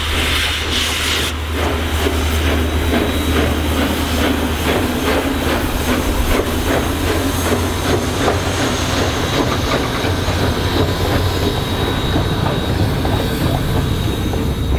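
Train rolling past, its wheels clicking over the rail joints in a fast, even rhythm over a steady hiss and low rumble.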